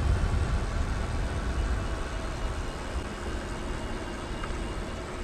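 Steady low rumble of vehicle and road noise with a faint hum, slowly fading.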